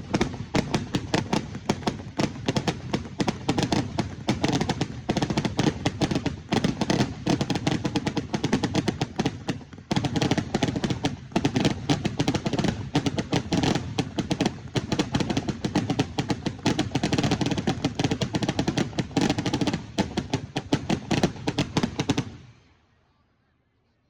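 Fireworks barrage: a dense run of rapid crackling bangs, many a second, that stops about 22 seconds in.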